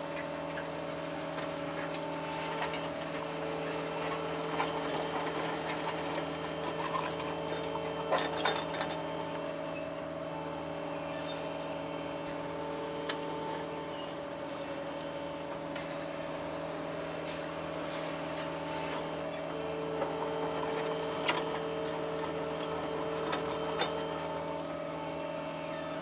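John Deere 75 excavator running steadily, its engine and hydraulics making a constant hum. A higher whine comes and goes for several seconds at a time as the controls are worked, with a few sharp clicks.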